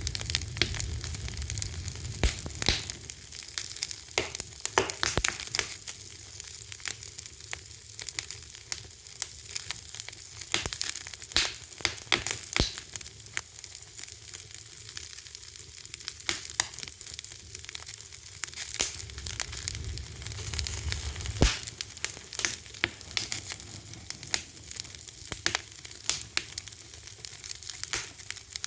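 Fire crackling steadily: a dense run of sharp pops and snaps over a soft hiss, with one louder pop about three quarters of the way through.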